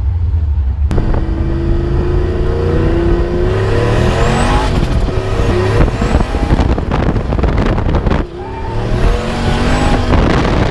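Inside a drift car, its engine revving hard as it accelerates: the pitch climbs, drops, then climbs again, with a rough, choppy stretch in the middle.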